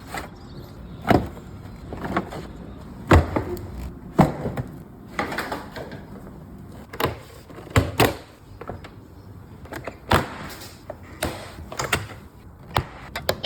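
Irregular knocks, clicks and clunks of parts and hand tools as an old Jaguar is taken apart, about a dozen sharp hits at uneven intervals.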